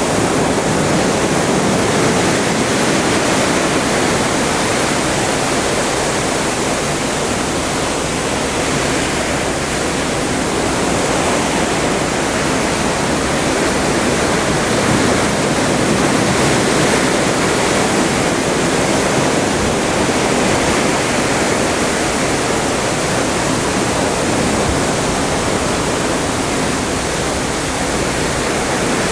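Steady rush of open-ocean sea water churning past a moving ship, an even hiss at constant loudness with no single wave standing out.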